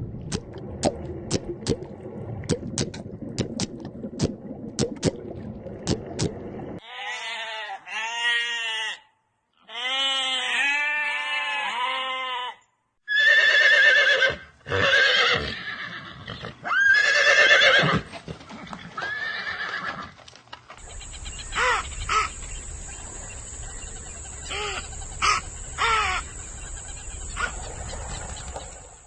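A string of animal calls: sharp clicks for the first several seconds, then repeated quavering, pitched calls like a horse whinnying, then more scattered clicks.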